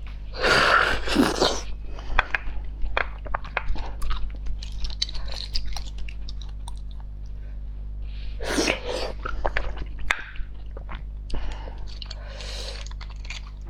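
Close-up chewing and biting of food, with many sharp crunchy clicks and two longer, louder noisy mouth sounds, about a second in and again near nine seconds, over a low steady hum.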